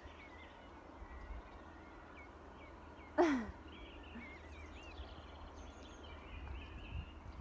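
Small birds chirping and twittering in the countryside, with one short, loud call about three seconds in that drops steeply in pitch.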